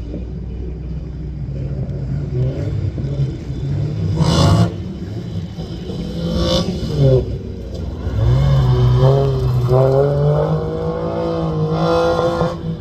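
Rally car engine running hard, its pitch holding, dropping just before the eighth second and climbing again as it is driven through the gears. Two short loud bursts cut across it, about four seconds in and near the end.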